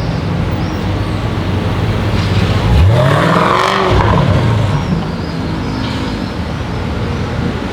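Jaguar F-Type SVR's supercharged 5.0-litre V8 accelerating, its engine note rising in pitch and swelling to its loudest about three to four seconds in, then easing off.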